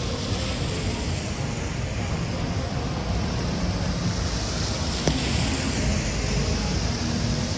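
Street traffic on wet pavement, a steady low rumble with the hiss of tyres swelling and fading through the middle as a vehicle passes. A single short click comes about five seconds in.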